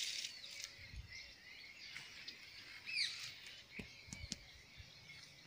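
Faint outdoor birdsong: several birds chirping, with a couple of clear, sharp chirps about three seconds in.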